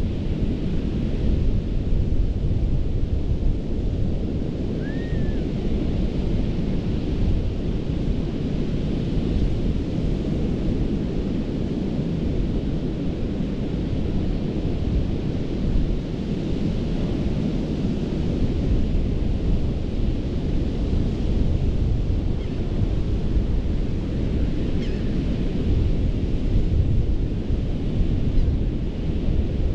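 Ocean surf breaking on a sandy beach: a steady, deep rush of waves with a heavy low rumble. A single brief high chirp sounds about five seconds in.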